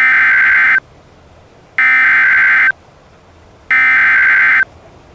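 Emergency Alert System SAME header: three bursts of digital data tones, each just under a second long and about a second apart. The bursts carry the coded alert header.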